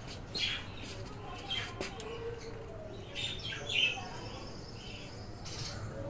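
Small birds chirping: short, high chirps scattered through, several each second, with a louder cluster a little after three seconds in.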